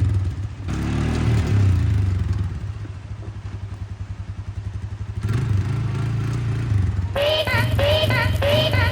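A vehicle engine running with a steady low throb, louder at first, easing off for a couple of seconds, then picking up again. Near the end a run of short repeated chirpy notes of music starts over it.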